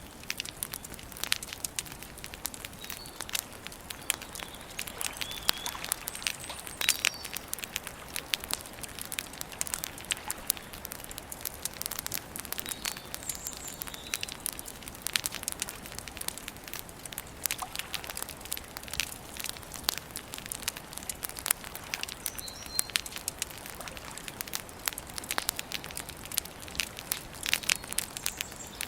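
Campfire burning, the wood crackling continually with many small sharp pops. A few faint short bird chirps come through now and then.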